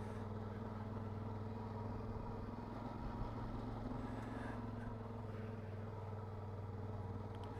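Motorcycle engine running at a steady, even speed while being ridden.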